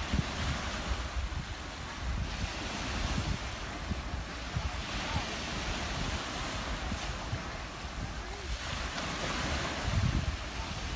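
Ocean waves breaking and washing up on a beach, the surf swelling and fading several times, with gusts of wind buffeting the microphone.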